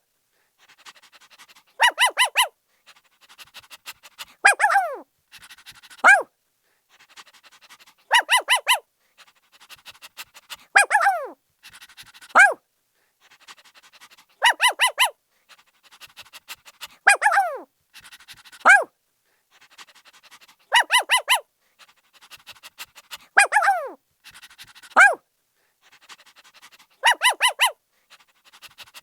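A puppy barking in a repeating pattern: quick bursts of three or four short, high yaps alternate with single yelps that slide down in pitch. Faint scratchy sounds fill the gaps, and the whole sequence comes round again about every six seconds.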